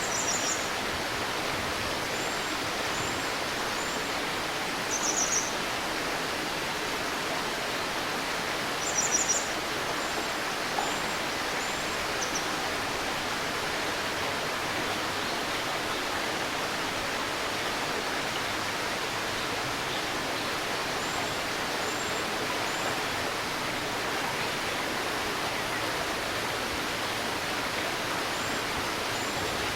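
A river babbling over stones in a steady rush, with birds calling high above it. There are short trilled phrases right at the start, about five seconds in and about nine seconds in, and small groups of short chirps scattered through.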